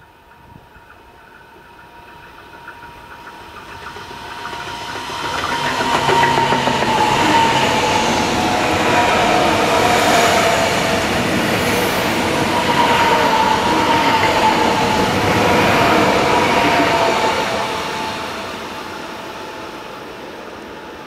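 ICE high-speed train passing by: its rumble and wheel noise build over about five seconds, stay loud for about twelve, then fade, with a steady whine running through it.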